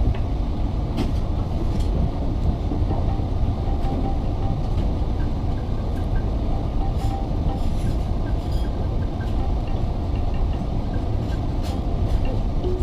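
Steady low rumble and hiss of cabin noise inside an Airbus A380 on the ground, with a few faint clicks.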